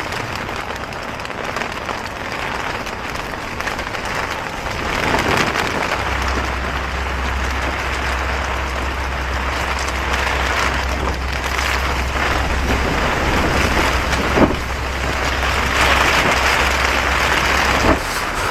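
Strong wind gusting against a tent with rain on the fabric: a loud, unbroken rush that swells several times, with a low rumble of wind on the microphone from about six seconds in. One sharp knock about fourteen seconds in.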